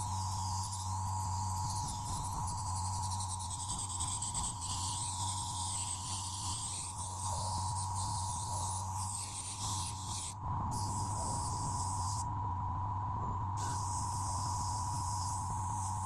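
A small electric motor running steadily, with a constant hum and a shifting hiss above it that drops out briefly a few times in the second half.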